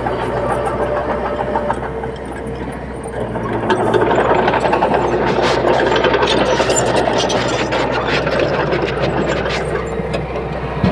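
Heavy diesel earthmoving machine running under load, getting louder about four seconds in and staying loud, with a rattling clatter over a steady low engine drone.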